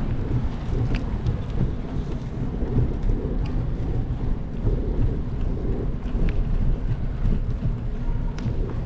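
Rain falling, with a strong steady low rumble underneath and a few sharp ticks of drops.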